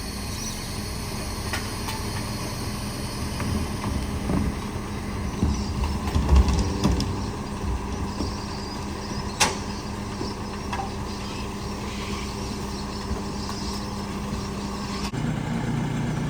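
Bulk waste garbage truck running steadily, with scattered knocks and clunks: the heaviest are a couple of thumps about six seconds in, and there is a sharp crack near the middle. The low engine sound changes abruptly near the end.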